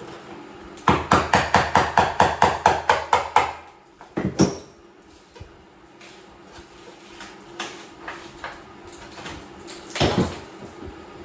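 Hammer tapping in a quick run of about fifteen strokes, roughly five a second, then two knocks, scattered light clicks and one louder knock near the end: tile being broken back out of a shower wall.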